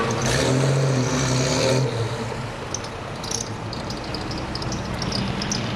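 Vintage car engine running nearby, loudest for the first two seconds, then dropping to a quieter steady rumble as the cars move off in street traffic.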